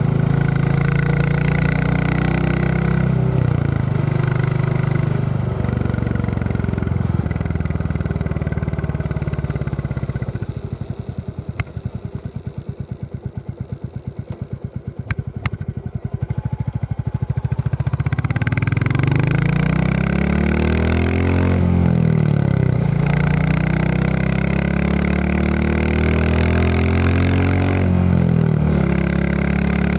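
Royal Enfield Classic 350 single-cylinder engine running under way. In the middle it drops to a slow, quieter thump of separate firing pulses as the bike rolls off. Then it picks up again, the revs rising and falling in steps as it accelerates.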